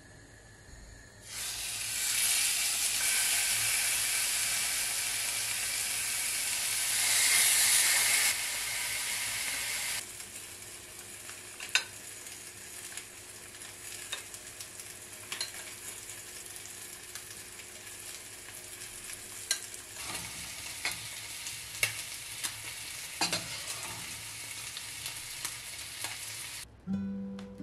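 Food sizzling in a hot frying pan. It starts suddenly and loud a little over a second in, then drops to a quieter steady sizzle about ten seconds in. Occasional sharp clicks of a utensil sound over the quieter sizzle.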